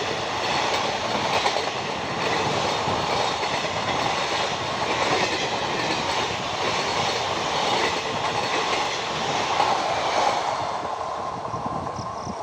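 Express passenger train's coaches rolling past, a steady rumble of wheels on the rails with clickety-clack, easing slightly near the end.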